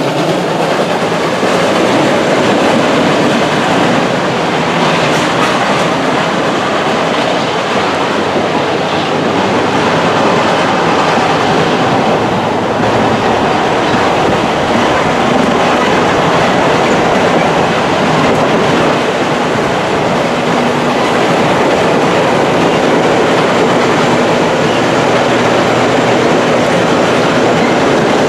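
Train rolling along the track: a loud, steady rumble of wheels on rails that holds even throughout.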